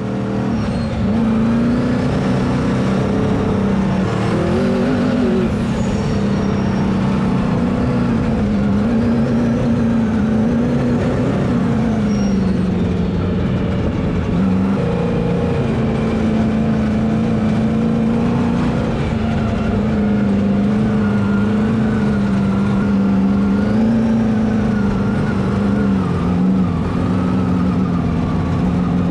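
Vehicle engine running under changing throttle, its pitch wavering up and down.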